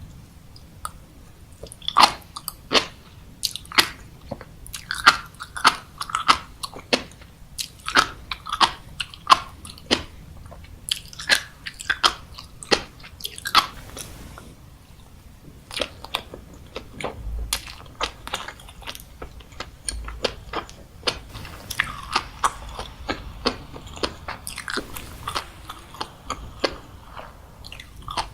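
Close-miked mouth chewing of popping, crunchy food: many sharp, irregular pops and crunches with wet mouth sounds, pausing briefly about halfway through.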